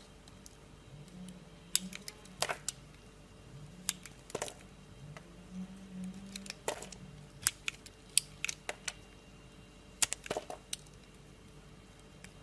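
A knife cutting into dry soap, giving a series of sharp, crisp crunches and snaps at irregular intervals.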